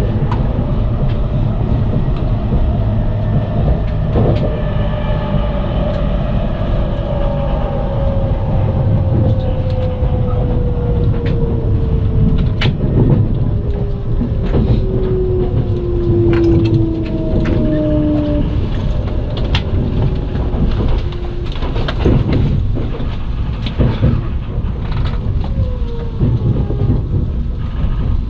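Limited express train, heard inside the carriage as it brakes into the terminus: a steady low rumble, with a motor whine that falls in pitch over about fourteen seconds. From the middle on, the wheels give sharp clicks and knocks over rail joints and points.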